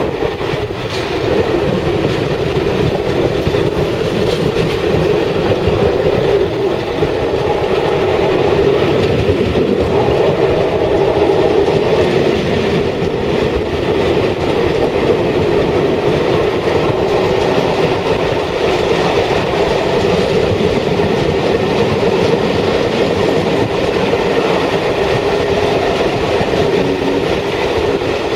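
Steam-hauled passenger train, headed by 60163 Tornado, running past: a steady loud rumble of the train rolling on the rails, with wheels clattering over the rail joints.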